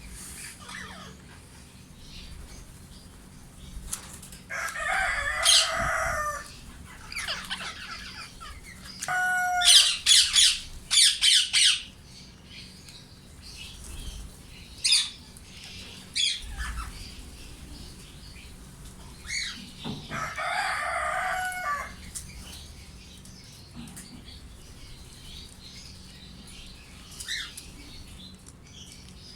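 Indian ringneck parakeets in an aviary: wings flapping in two short flurries, a few seconds in and again about twenty seconds in. A run of loud, shrill screeches comes around ten seconds in, with occasional single calls between.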